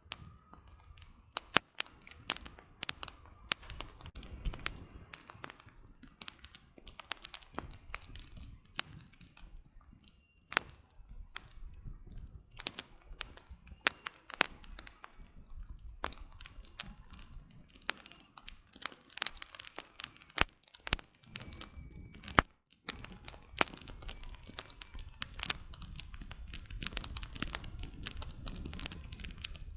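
Campfire of burning firewood crackling, with many sharp irregular pops and snaps over a low rushing hiss of the flames.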